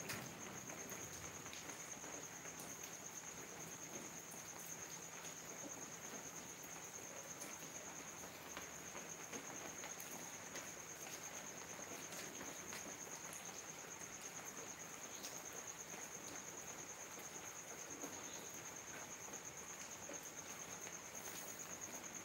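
Steady rain falling, with scattered drops ticking, under a continuous high-pitched insect trill.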